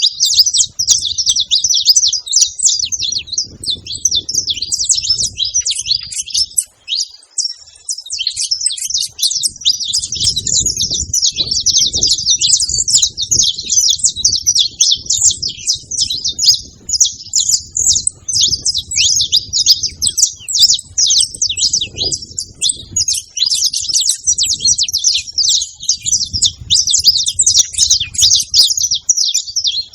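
Saffron finches singing: a dense, unbroken stream of quick, high chirps and trills. A low rumble comes and goes underneath.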